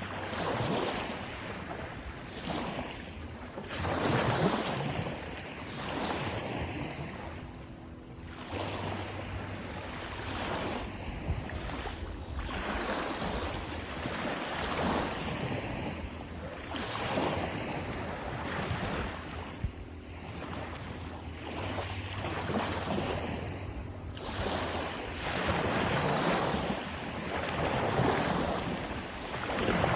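Sea waves washing in repeated swells, one about every two seconds, with a low hum coming and going underneath.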